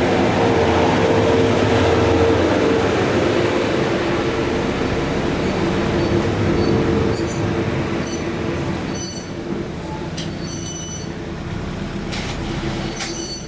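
A machine running steadily, a loud noise with a hum in it that eases slightly in the second half and then stops abruptly. Short high pips repeat about twice a second from midway on.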